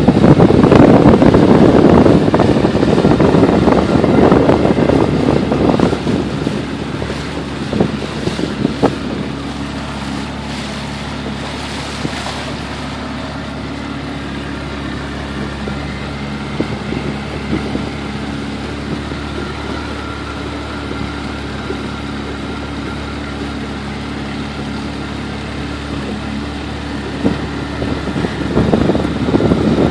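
Small boat's motor running at a steady speed. Wind buffets the microphone loudly for the first several seconds and again near the end.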